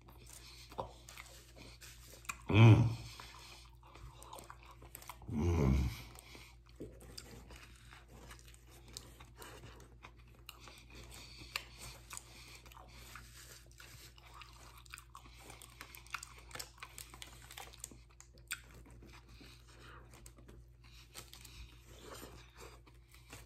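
A man chewing a veggie sub sandwich with lettuce, crunching and smacking close to the microphone, with two loud grunts from the throat about three and six seconds in.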